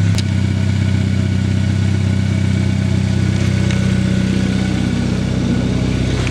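2013 Hyundai Veloster Turbo's 1.6-litre turbocharged four-cylinder engine idling steadily, with one click just after the start.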